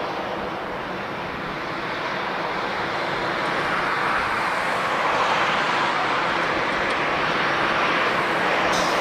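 Airliner jet engines heard at an airport, a steady rushing noise that grows louder over the first few seconds and then holds.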